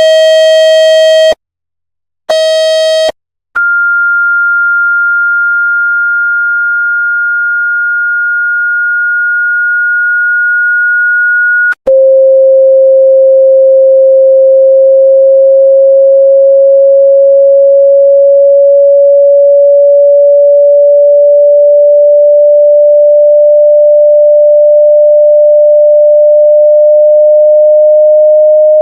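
Electronically generated test tones for clearing water from a phone speaker. First comes a buzzy, harsh tone that cuts out twice. Then a steady, high pure tone runs for about eight seconds, and after it a lower pure tone slowly climbs in pitch.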